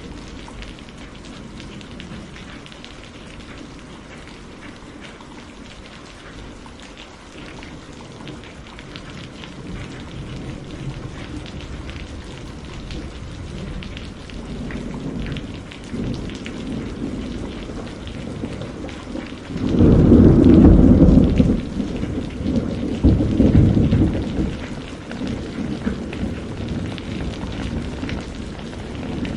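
Steady rainfall, with a roll of thunder breaking in about two-thirds of the way through: a deep rumble lasting a couple of seconds, then a weaker second swell.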